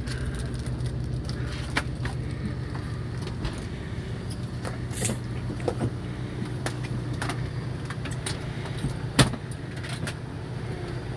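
A fishing boat's motor runs steadily with a low hum, under scattered small clicks and knocks. A single sharper knock comes about nine seconds in.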